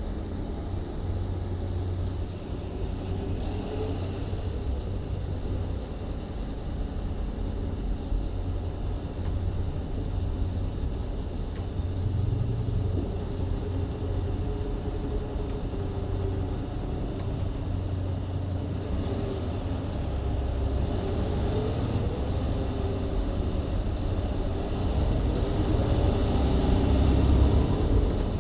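Mercedes-Benz Citaro C2 LE hybrid bus with a Voith automatic gearbox, heard from aboard: the diesel engine and driveline run under a steady low road rumble, with a faint whine that rises and falls. The engine grows louder near the end as the bus pulls harder.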